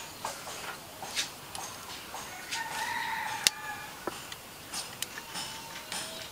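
A chicken calling once with a drawn-out note about two and a half seconds in, among scattered short bird chirps and a sharp click.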